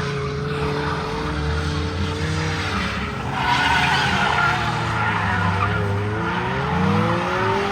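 Front-wheel-drive car's engine held at high revs while its tyres spin and screech on the pavement in a burnout. The revs sag and then climb again near the end.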